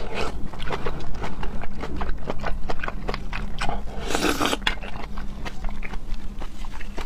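Close-miked chewing of raw seafood: a quick run of wet clicking and smacking mouth sounds, with a short breathy hiss about four seconds in.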